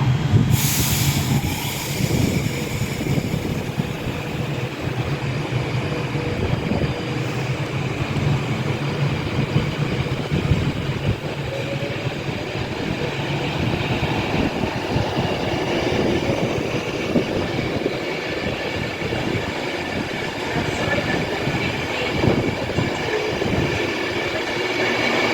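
Class 390 Pendolino electric train pulling out and running past, a steady rail noise of wheels on track with a faint high tone over it.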